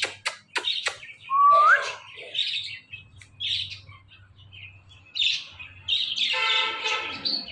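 Pet ring-necked parakeet calling: short chirps and a loud rising whistle about a second and a half in, then a longer, many-toned call near the end.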